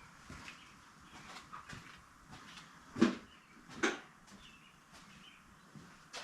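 Light taps and clicks of hand work at a workbench, with two louder knocks about three seconds in and again just under a second later.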